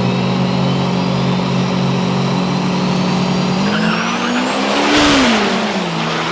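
Turbo-diesel truck engine running steadily, then revving up about three and a half seconds in with a rising turbocharger whistle. The engine note peaks with a rush of noise about five seconds in and drops back, while the turbo whistle stays high.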